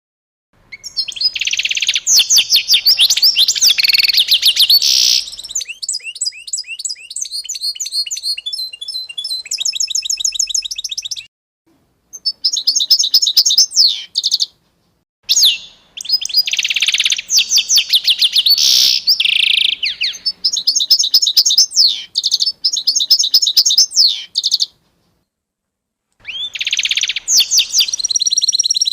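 Songbirds singing: quick chirps, fast trills and rapidly repeated high notes in long bursts. These are broken four times by brief total silences, the edit points between recordings.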